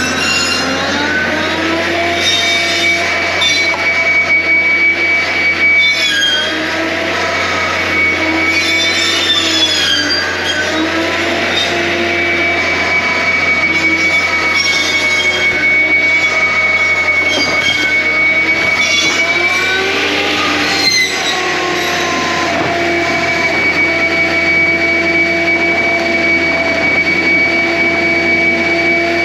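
John Deere 333G compact track loader running a hydraulic cutting attachment: a steady engine and hydraulic whine made of several tones. Its pitch sags and recovers several times as the cutter takes load.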